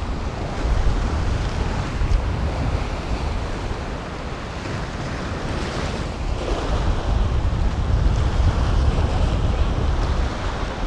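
Gulf surf washing against the jetty rocks, with wind buffeting the microphone in a steady low rumble.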